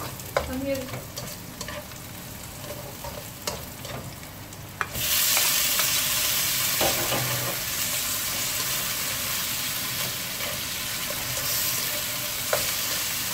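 Ginger frying in oil in a nonstick wok, with a spatula scraping and clicking against the pan. About five seconds in, sliced tomatoes go into the hot oil and the sizzle suddenly gets much louder, then stays steady under the stirring.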